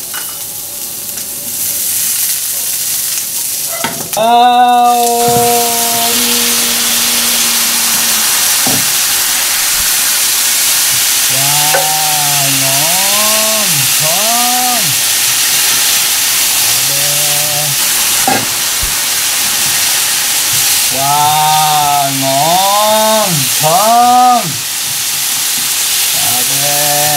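Chicken pieces frying with onion, garlic and lemongrass in a hot non-stick pan, turned with chopsticks: a steady loud sizzle that jumps louder about four seconds in as the raw chicken goes into the oil. A wordless voice rises and falls over it several times.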